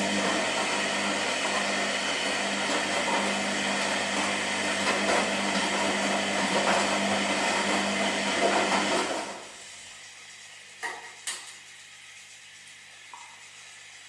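Washing machine running its drum motor with a loud steady churning for about nine seconds, then stopping, leaving a low hum and a couple of sharp clicks, as in a wash cycle pausing between turns of the drum.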